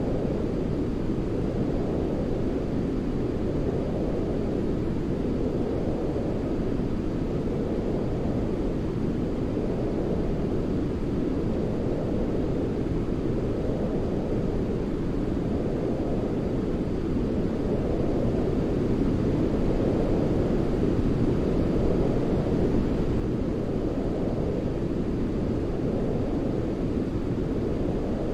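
Continuous sleep noise for soothing a baby: a deep, rushing noise with most of its weight in the low range, like brown noise. It swells and ebbs gently every few seconds, with no tones or breaks.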